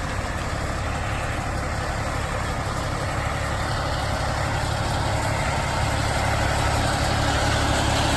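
Semi truck running down the road: a steady low engine drone with road noise, growing slowly louder.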